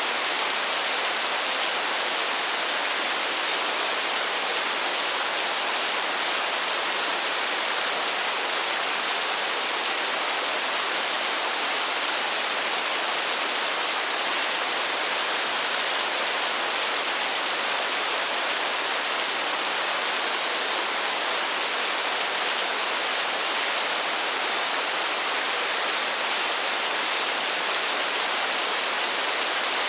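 Steady, even hiss of heavy rainfall, with no single drops standing out and no change in level.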